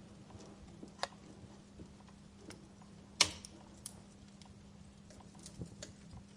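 Wood fire crackling in a fireplace: sparse, sharp pops and snaps a second or so apart, the loudest a little after three seconds in.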